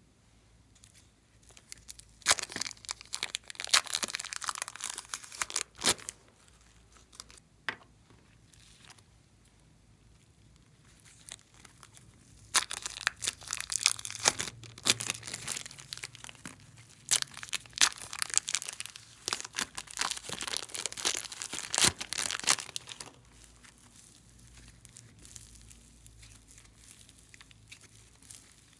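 Slime being squeezed and kneaded by hand, giving dense crackling and popping in two spells, a short one a couple of seconds in and a longer one of about ten seconds from the middle, with quiet pauses between.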